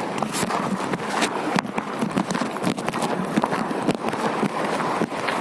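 Footsteps of a person walking over rough ground, a string of irregular steps and knocks.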